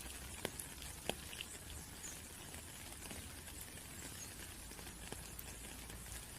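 Light rain falling: a steady hiss with scattered single drops ticking, a couple of sharper ones in the first second or so.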